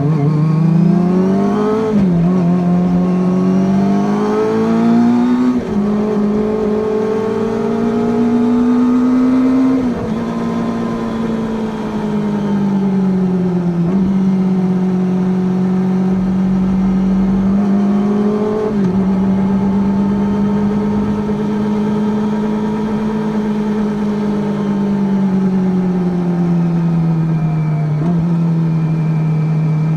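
Kawasaki Ninja ZX-25R's 249 cc inline-four, breathing through an Akrapovič full-carbon racing exhaust, running under way as the bike is ridden. The engine note rises and falls steadily, with about six sudden jumps in pitch along the way.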